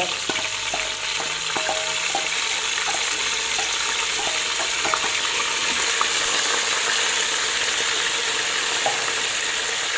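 Chicken pieces and freshly grated onion frying in oil and smen in an aluminium pot, with a steady sizzle. Near the end they are stirred with a wooden spoon.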